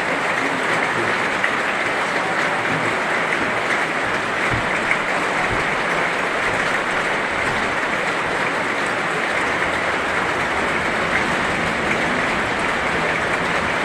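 Heavy rain falling steadily: a dense, even hiss of rain with scattered individual drop ticks.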